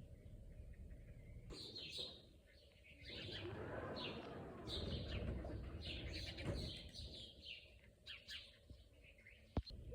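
Small birds chirping and twittering in many short, high calls, busiest in the middle, over a low rumble. A single sharp click near the end.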